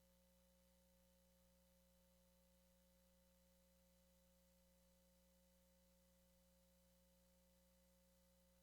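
Near silence: only a faint steady hum made of a few constant tones, unchanging throughout.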